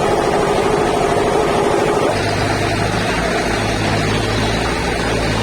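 Heavy sawmill machinery engine running steadily; about two seconds in, the sound shifts to a lower, even hum.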